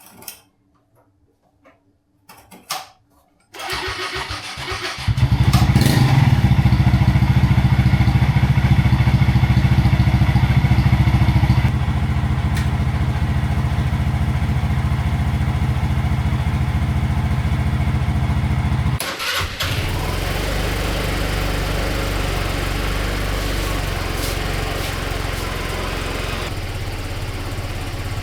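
A few clicks, then a Royal Alloy scooter's single-cylinder engine starting about four seconds in and running steadily. The sound breaks off briefly about nineteen seconds in, and the engine carries on running afterwards.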